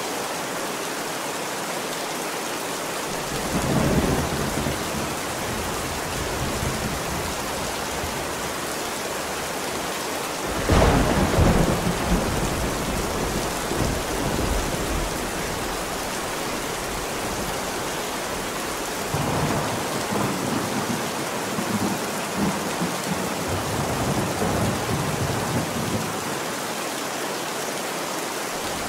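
Steady heavy rain with three rolls of thunder. The first rumbles up a few seconds in, the loudest cracks in at about a third of the way through and fades, and a longer rolling peal comes near the end.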